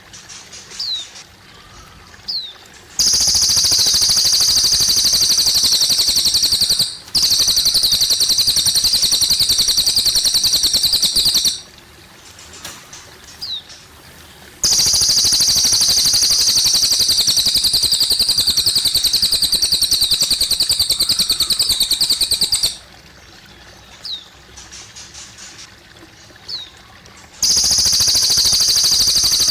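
Cililin bird singing long, rapid, high-pitched trills, each lasting several seconds, four times. Between the trills come single short down-slurred chirps, over trickling water.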